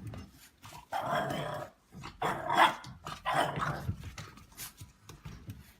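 A dog vocalizing in several short bursts, each about half a second long.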